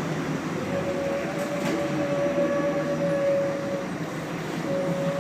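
Scania L113CRB bus running, its engine and driveline giving a steady rumble with a steady whine that sets in about a second in, drops out briefly near the end and returns.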